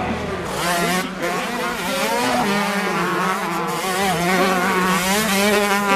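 Several motocross bikes racing on track, their engines revving up and down with overlapping, wavering pitches as they accelerate and pass.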